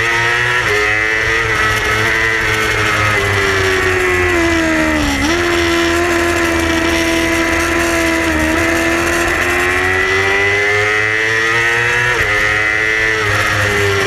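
Yamaha R6 inline-four racing engine running hard at high revs, its pitch climbing and falling with the throttle. It dips briefly about five seconds in, and after a long slow climb drops sharply near the end at a gear change.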